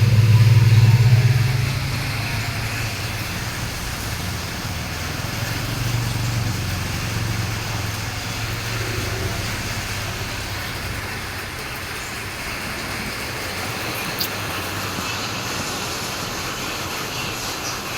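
A motor vehicle's engine passing close by, loudest in the first couple of seconds and then fading away, over a steady background hiss.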